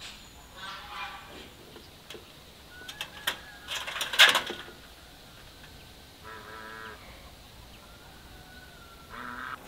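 Calls from a rooster and a hooded crow perched together: a short call near the start, a burst of loud, harsh calls with a few sharp clicks about three to four and a half seconds in, and another short call past the middle.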